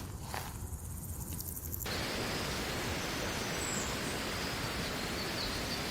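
Insects chirping in a high, rhythmic pattern, then an abrupt cut about two seconds in to a steady, even rushing noise of outdoor ambience.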